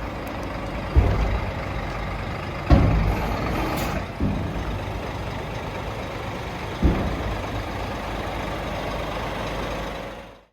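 Scania G420 tipper truck's diesel engine running, with four sudden surges in engine sound that die away over about a second each, and a short hiss about three seconds in. The sound fades out near the end.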